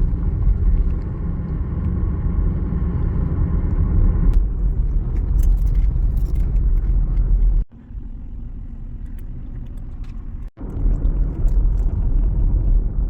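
Strong wind buffeting the phone's microphone: a loud, steady low rumble that briefly cuts out twice in the middle.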